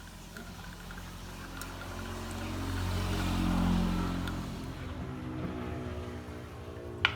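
A vehicle passing by, its low rumble swelling to a peak a little past halfway and fading away, then a sharp click near the end.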